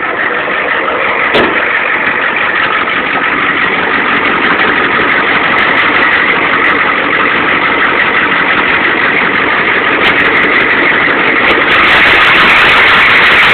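Ford 7.3 IDI non-turbo V8 diesel idling shortly after a cold start on a freezing morning, through a 4-inch exhaust. It is steady throughout, growing gradually louder with a step up near the end, and there is one short knock about a second and a half in.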